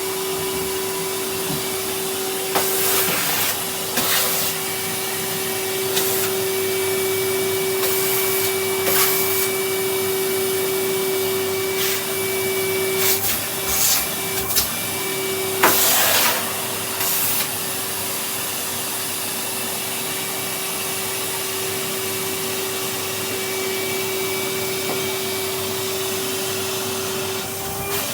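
Vacuum cleaner running with a steady whine and hiss, broken by scattered short knocks and clatters. The whine briefly wavers about halfway through.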